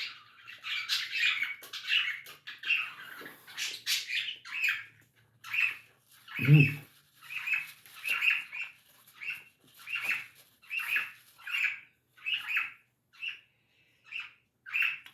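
Birds chirping over and over in short separate calls, about one to two a second. About six and a half seconds in there is one louder, lower-pitched sound.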